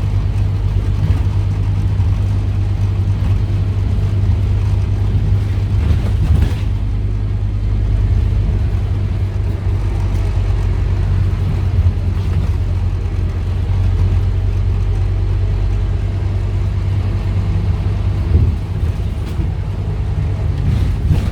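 Scania N230UD double-decker bus's five-cylinder Scania DC9 diesel engine running steadily under way, with a brief knock about six seconds in and another near the end.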